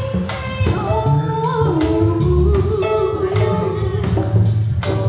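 Live band playing with a singer's voice carrying the melody over bass, drums and guitar.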